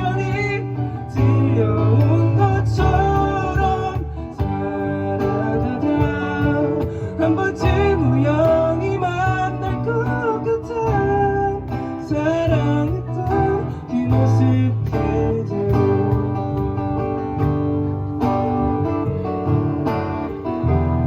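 A live band playing a song: strummed acoustic guitar over bass, keyboard and cajon, with a melody line that bends and wavers above.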